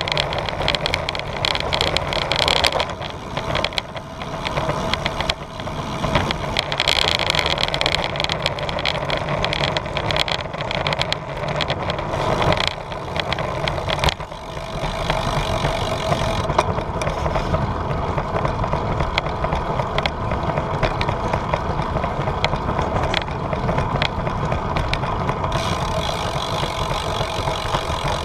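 Riding noise picked up by a GoPro on a moving bicycle: a continuous low rumble with frequent short rattles and knocks.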